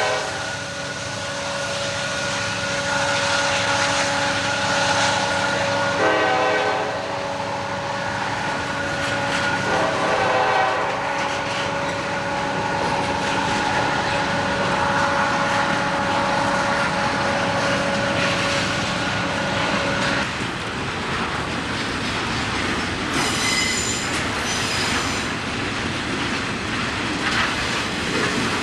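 Diesel train passing close by, its horn sounding in several blasts through the first half. After that the cars roll past with steady wheel noise and clickety-clack.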